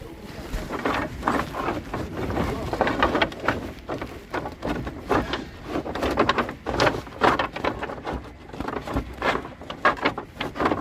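Wood being handled: irregular clattering and knocks, with no saw running.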